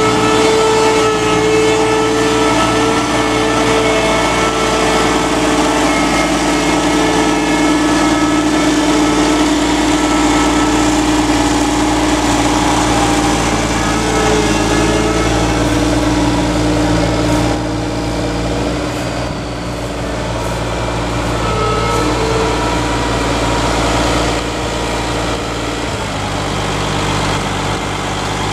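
The diesel engine of a Caterpillar tracked trail groomer running steadily. The engine note drops slightly about two-thirds of the way through and shifts again near the end.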